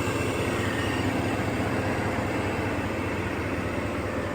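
Supercharged 6.0-litre V8 with a Vortech supercharger idling steadily.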